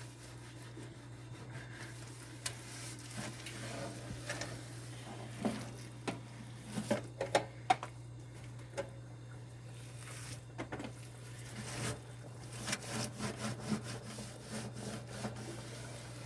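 Cloth rag rubbing and wiping a hard surface, with scattered knocks and taps over a steady low hum.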